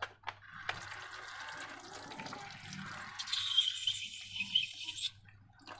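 Wet, sticky sounds of slime being worked, with a few small clicks early on and a crackly, squelching stretch in the middle that stops near the end.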